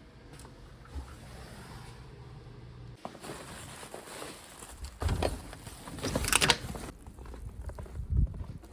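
Quiet at first, then about three seconds in the sound opens up; from about five seconds in, blizzard wind gusts buffet the microphone with crunching footsteps in snow.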